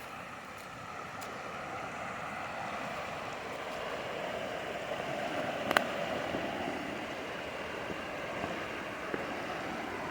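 Creek water flowing, a steady rushing hiss that grows slightly louder, with one sharp click about six seconds in.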